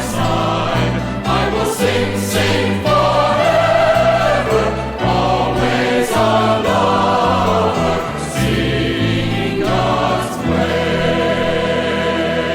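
Worship song: voices singing over instrumental accompaniment with a pulsing bass line, settling onto one long held final chord near the end.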